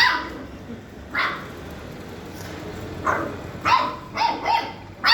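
Golden retriever barking: about seven short, high-pitched barks at uneven intervals, coming faster in a run of four near the end.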